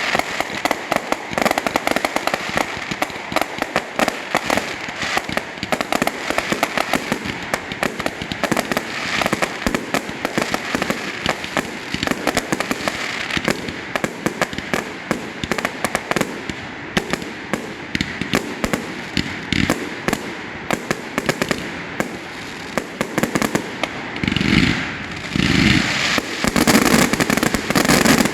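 Fireworks at the end of a display: a dense, continuous crackling and popping of many shells bursting, with several louder, deeper booms near the end.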